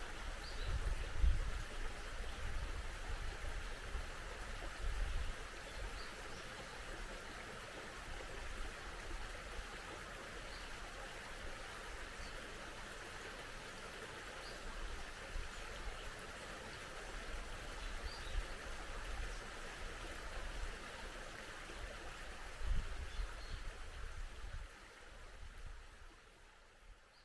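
Mountain stream flowing steadily, with a few faint, short bird chirps scattered through it and occasional low rumbles. The sound fades out near the end.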